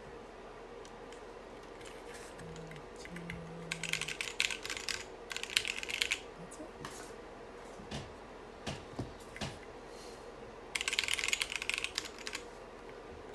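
Typing on a UT47.2 40% mechanical keyboard: two runs of rapid key clicks, with scattered single key presses between them.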